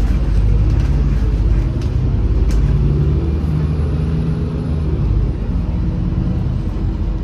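Inside a MAZ-203 city bus underway: the diesel engine running, its note shifting in pitch as the bus changes speed, over a steady low road rumble.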